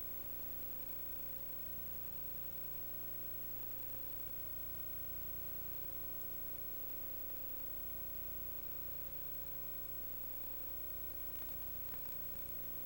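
Steady electrical hum with hiss, with a couple of faint clicks near the end.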